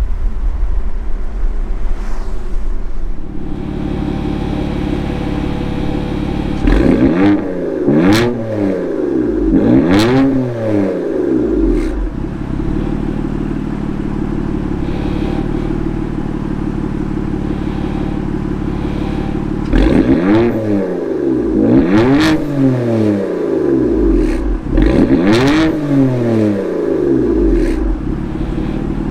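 BMW F80 M3's twin-turbo inline-six, breathing through an M Performance exhaust with the secondary cats deleted and straight-piped, idling and then revved in two sets of about three quick blips, each rising and dropping back to idle.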